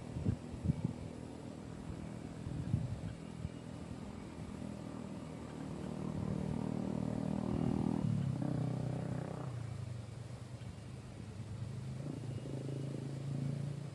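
A motor vehicle's engine running close by, louder towards the middle, dropping in pitch about eight seconds in, then settling into a steady low hum. A few sharp knocks come in the first second.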